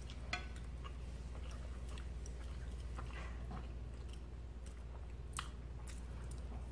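Soft chewing and biting of food close to the microphone, with a few faint clicks of plastic forks against plates over a steady low hum.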